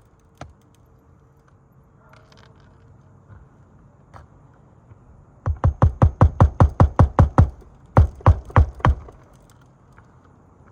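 A hammer striking nails into asphalt roof shingles during a shingle repair: a fast, even run of about a dozen sharp blows, then four more after a short pause.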